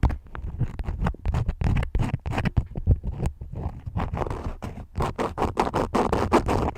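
Wax crayons scratching and tapping close to the microphone. Quick, irregular clicks and taps run throughout, with longer scratchy strokes in the second half.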